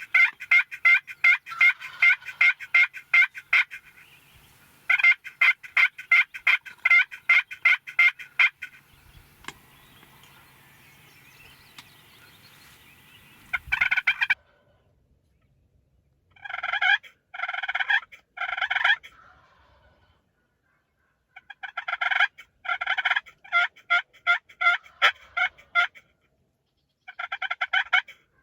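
Wild turkeys calling: runs of loud, rapid rattling notes, several a second. They are long and steady at first, then break after a quieter lull into shorter clusters.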